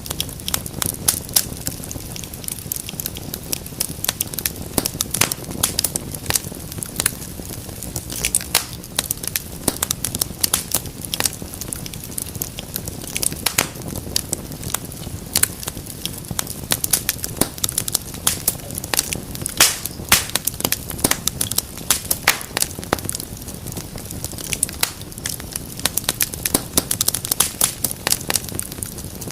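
Wood fire burning in a fireplace, with a steady low rumble and dense, irregular crackles and pops.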